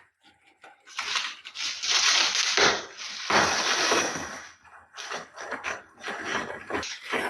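Rustling and crunching handling noise in irregular bursts, loudest in a long stretch about one to four and a half seconds in, as a replacement MPPT board is handled and fitted into an inverter.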